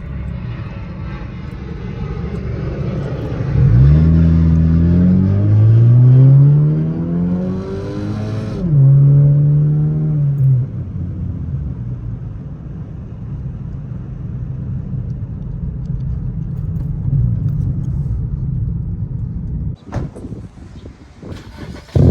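Exhaust of a 2012 Honda Civic's 1.8-litre four-cylinder with an aftermarket eBay muffler, running with a steady low drone. A few seconds in it accelerates, its note rising for about five seconds before dropping sharply. It then holds a steady note and settles back to a low drone.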